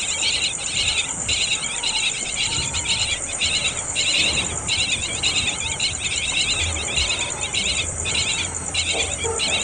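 Insects trilling: one steady high-pitched drone, with a second chorus beneath it that pulses in stretches of about a second separated by short breaks.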